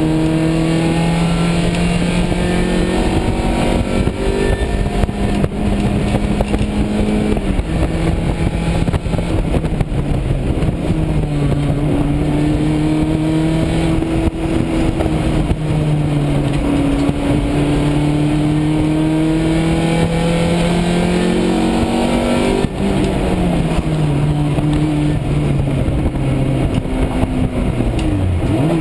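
1990 Honda CRX's D16A6 1.5-litre four-cylinder engine running hard on track, heard from inside the stripped-out cabin. Its pitch climbs and falls through the corners, with sudden drops at gear changes about seven seconds in and again near twenty-three seconds, and another shift just before the end.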